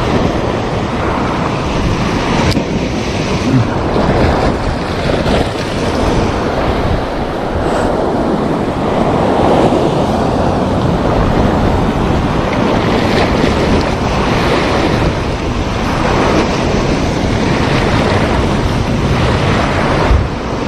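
Sea waves washing onto the shore in repeated surges, with wind buffeting the microphone.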